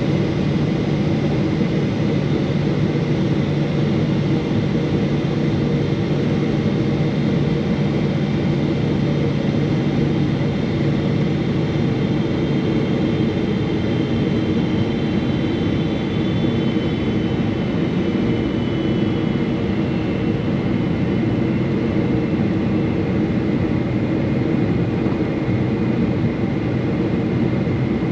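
Steady cabin noise inside a Boeing 777-300 airliner: the constant rumble and hum of the engines and air, with a faint high whine that drifts slightly lower about halfway through.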